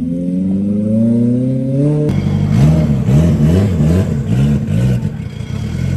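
Car engine accelerating, its pitch rising steadily for about two seconds, then suddenly replaced by a louder, rougher engine sound with the revs rising and falling in quick repeated blips.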